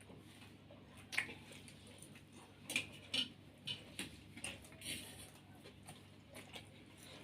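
Spoons clinking and scraping against plates during eating: a scattering of faint, sharp taps, the loudest about a second in and near three seconds.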